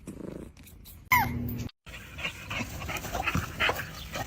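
A dog giving a short whine that falls in pitch about a second in, then, after a sudden break, a string of short, high vocal sounds.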